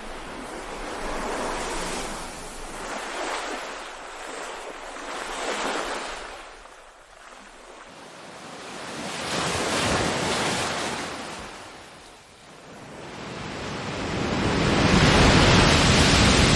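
Ocean waves washing in and falling back in slow surges, a few seconds apart, the biggest one swelling near the end.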